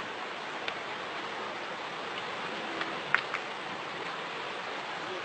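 Steady rushing noise, like rain or water, with a few faint ticks about three seconds in.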